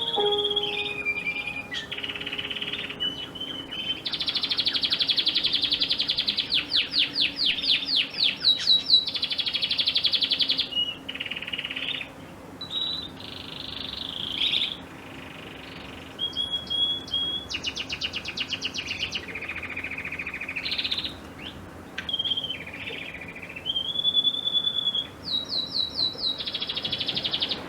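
A songbird singing a long, varied song of high whistled notes, fast trills and runs of rapidly repeated notes, with brief pauses between phrases.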